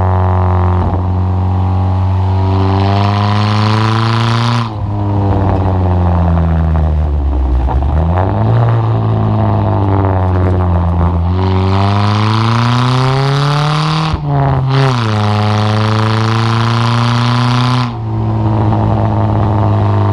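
Chevy S10's stock 2.2-litre four-cylinder running loud through a full aftermarket exhaust, revving up repeatedly. The pitch climbs several times and drops away sharply at each peak, about three times in all.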